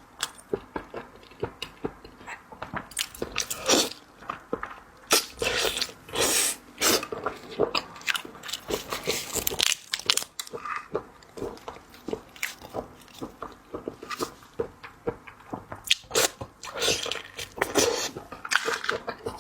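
Close-up mukbang eating sounds: irregular crunching, biting and chewing on seafood, with crisp clicks and wet mouth noises.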